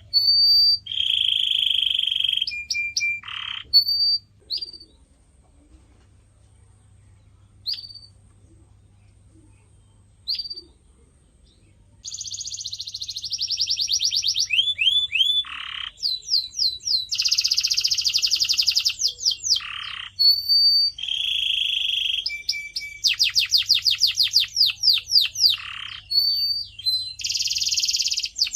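Domestic canary singing: fast trills and rolls of rapidly repeated notes, buzzy rattling phrases and short whistled notes. From about five to twelve seconds in there are only a few scattered single chirps, then the song runs on without a break.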